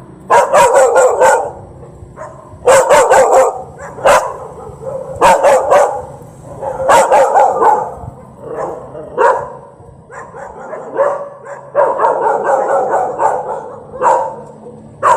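Dog barking in runs of several quick barks, with short pauses between the runs.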